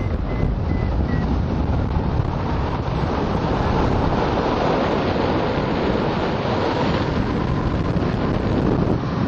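Strong wind rushing and buffeting over the camera microphone of a hang glider in flight: a steady, loud roar of airflow.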